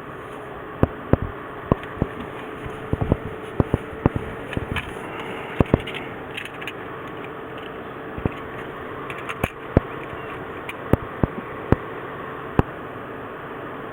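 Car engine idling steadily, heard as an even mechanical noise with a faint steady hum, broken by scattered sharp clicks and knocks at irregular intervals.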